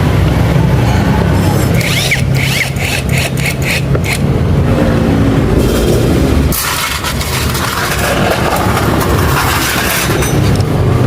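A motor vehicle engine running steadily, with a run of quick clicks about two seconds in and a hiss through the middle.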